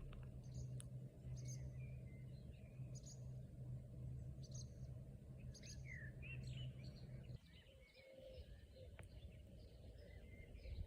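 Several small birds chirping and twittering in short high calls, over a steady low rumble with a hum that drops away about seven seconds in.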